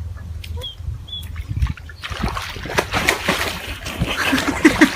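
Water splashing and trickling, growing louder and denser about two seconds in.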